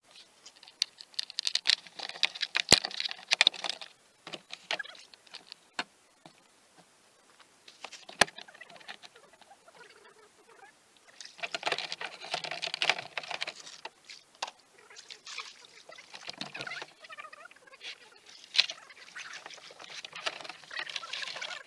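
Water splashing and dripping as kayak paddles dip, in bursts of several seconds with quieter spells between, and a few sharp knocks.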